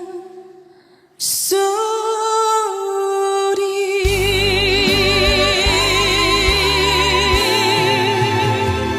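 A female trot singer holds a long final note with wide vibrato over the band's accompaniment. After a brief fade near the start the music comes back suddenly, and the full band with bass and drums swells in about four seconds in.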